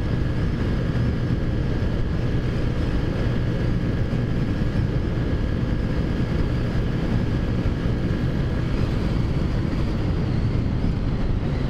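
Taotao Zummer 50cc scooter engine running steadily at riding speed, with wind and road noise.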